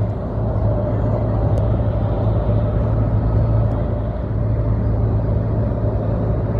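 Motor-vehicle road noise: a steady low drone of engine and tyres on the highway, with no rise or fall of a passing vehicle.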